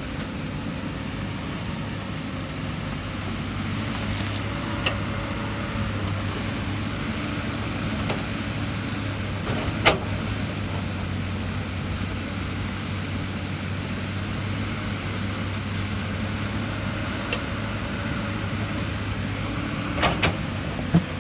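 Excavator's diesel engine running steadily, with a few sharp metallic knocks: one loud one about ten seconds in and a short cluster near the end.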